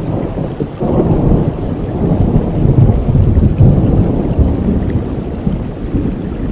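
Steady rain with a long roll of thunder that builds about a second in and rumbles on for several seconds.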